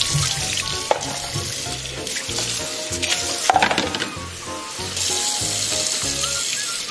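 Food sizzling in a hot pan, as a steady hiss under background music, with a few sharp clicks and knocks, the loudest about halfway through.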